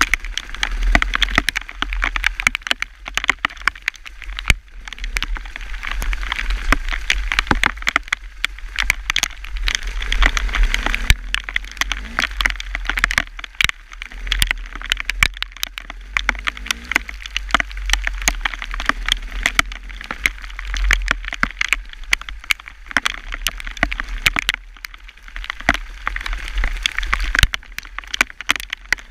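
Hailstones pelting down close to the microphone: a dense, irregular rattle of sharp clicks over a steady low rumble.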